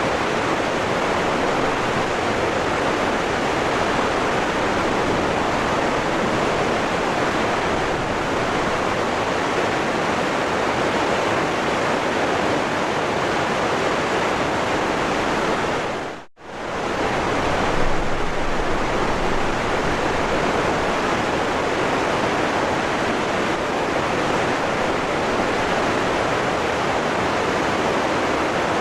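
Waterfall rushing, a steady wash of falling water. A little over halfway through it cuts out for an instant and comes straight back.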